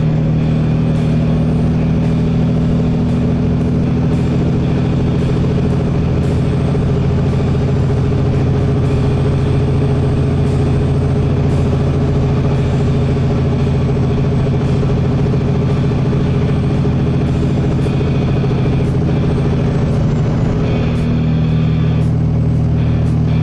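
Motor vehicle driving at a steady speed: a constant low engine drone with road noise.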